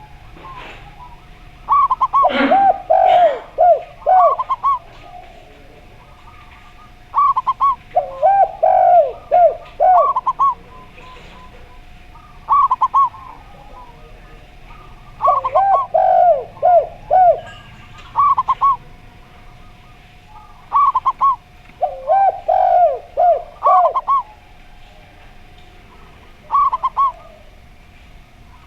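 Zebra dove (perkutut) and derkuku dove cooing, phrases of several short arched notes repeated every few seconds, the two calls alternating. A faint steady tone runs underneath.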